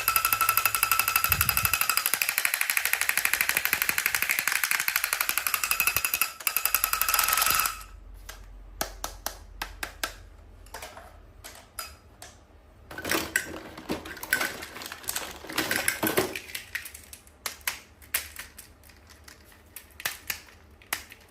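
A toy's rapid rattling buzz, which stops sharply about eight seconds in. Scattered clicks and knocks of handling follow.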